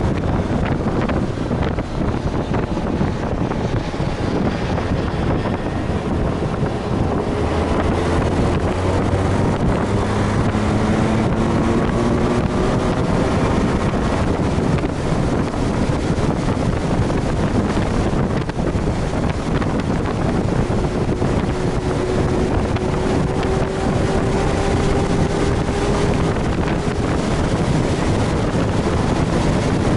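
Honda Gold Wing GL1500's flat-six engine running at track speed under heavy wind noise on the helmet microphone. The engine note rises slowly as the bike accelerates, about a third of the way in and again later.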